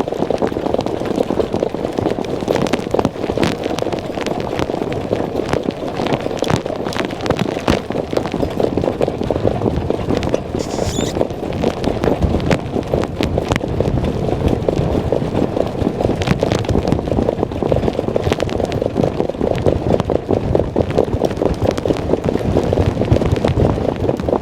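Racehorse's hoofbeats at working speed, heard from the driver's seat, with heavy wind noise on the microphone.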